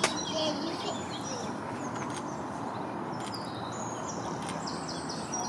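Small birds singing repeated high chirping phrases over a steady background hiss, with one sharp click right at the start.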